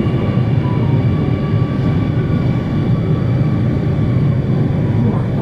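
Singapore MRT Circle Line train running: a steady, loud low rumble with a few faint steady whining tones above it.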